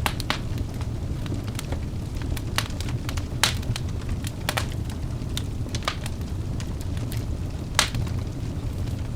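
Wood fire burning in a fireplace: a steady low rumble of flames with irregular sharp crackles and pops from the burning logs, the loudest pops about three and a half seconds in and near the end.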